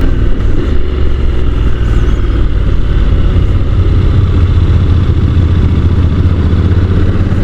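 Honda NC750 parallel-twin engine pulling steadily up a long climb, a low, even drone, with wind rush over the helmet microphone.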